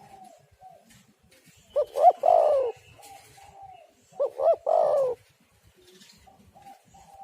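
Spotted dove (tekukur) cooing: two loud three-part calls about two and a half seconds apart, each two short notes and then a longer falling one. Fainter coos sound in between.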